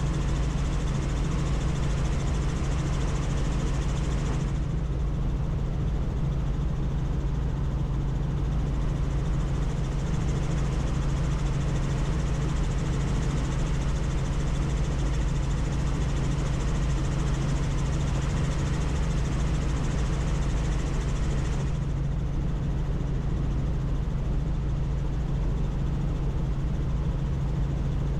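Helicopter in flight, heard from on board: a steady, loud drone of rotor and engine with a strong low hum and a hiss over it. The hiss thins out from a few seconds in until near the end.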